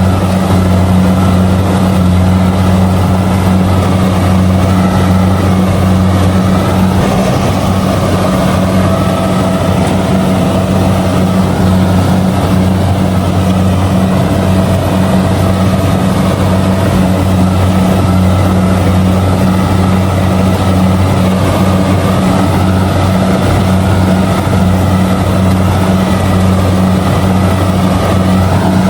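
Kubota DC-70G combine harvester's diesel engine running steadily while it harvests rice, a loud, even low drone.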